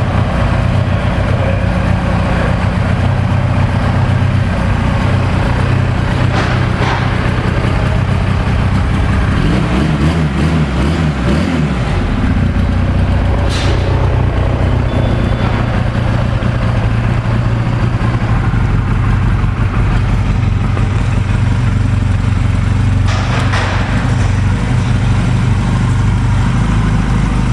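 2008 Honda Rebel 250's air-cooled parallel-twin engine idling steadily on choke while it warms up, the idle wavering briefly about ten seconds in.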